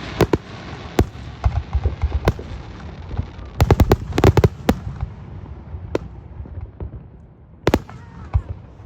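Fireworks going off: single sharp bangs a second or two apart, with a quick run of crackling reports about four seconds in.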